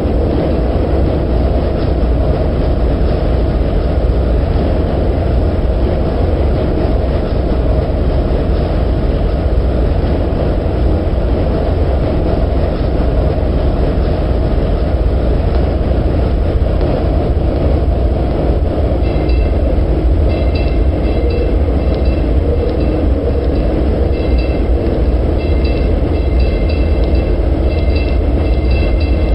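Streetcar running through an underground tunnel with a steady, loud rumble. About two-thirds of the way in, a high-pitched wheel squeal starts coming and going.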